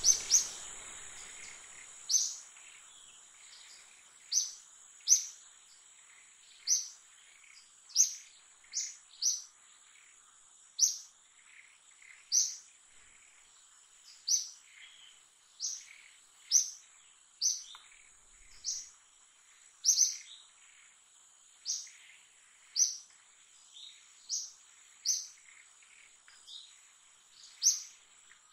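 A bird chirping over and over, short sharp high notes roughly once a second, over a faint steady high whine.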